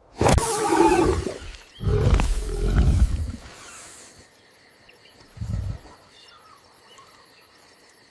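Big cat roaring: two long roars in the first three seconds, followed about five and a half seconds in by a short low rumble.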